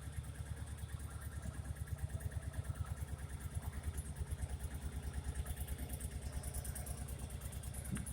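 1989 Honda PC800's liquid-cooled V-twin idling steadily with an even pulse, warming up after a cold start without choke.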